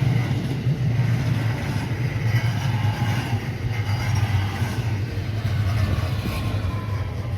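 JR Kobe Line electric train running past the station platform: a steady, loud low rumble of the train that eases slightly near the end.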